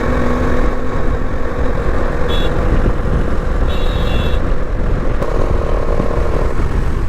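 Bajaj Dominar 400 motorcycle running on the road with heavy wind rumble on the microphone, its engine carrying the noise issue the owner is taking it in for. Two short high beeps cut through, about two and a half and four seconds in.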